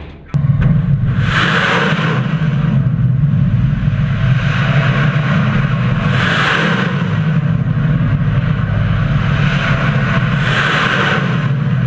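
A loud, steady low rumble with a hissing swell three times, about every four to five seconds.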